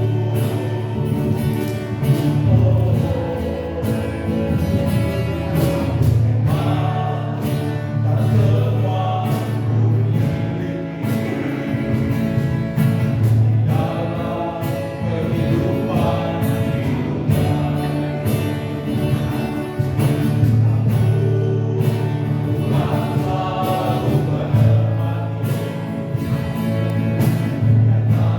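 Choir singing a gospel song over a steady low accompaniment.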